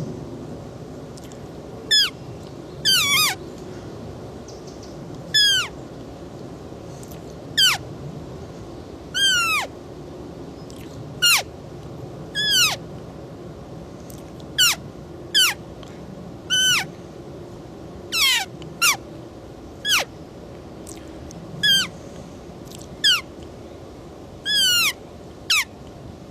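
Roe deer calling: a series of short, high-pitched calls, each falling steeply in pitch, repeated at irregular intervals of one to two seconds over a steady background hiss.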